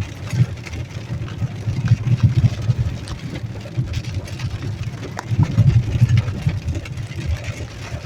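Car driving through a storm, heard from inside the cabin: a pulsing low rumble of engine and road, with scattered light ticks.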